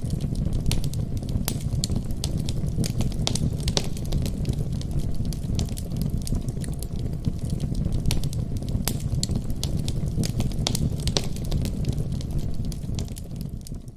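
Fireplace fire crackling, with frequent sharp pops over a steady low rumble, fading down near the end.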